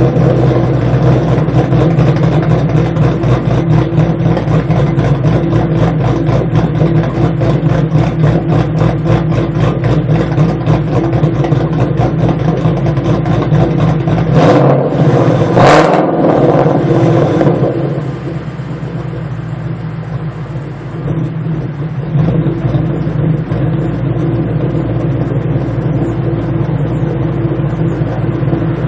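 2011–2014 Ford Mustang engine idling with a fast, even exhaust pulse, briefly revved about halfway through, then settling back to a quieter steady idle.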